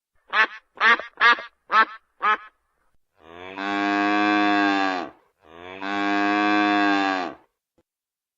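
Five quick duck quacks, then two long cow moos of about two seconds each.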